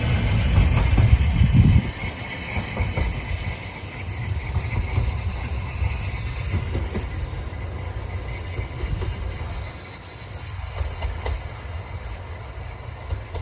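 Train running past, loud for about the first two seconds, then dropping to a quieter steady rumble with scattered clicks as it moves away.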